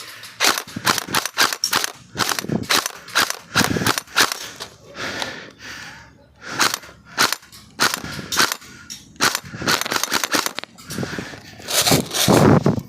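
Airsoft rifles firing in short bursts and single shots, the sharp cracks coming in irregular clusters, loudest near the end.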